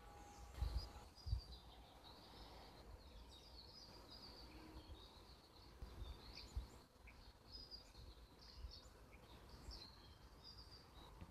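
Faint outdoor background with small birds chirping in short, scattered high calls, over a low rumble; two low thumps about a second in, the loudest sounds, like handling bumps on the microphone.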